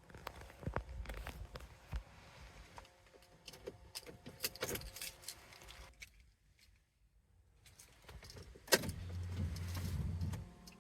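Keys and small parts clinking and rattling, then about nine seconds in a Ferrari 458's 4.5-litre V8 fires up with a sudden loud burst and a low rumble, settling toward idle near the end.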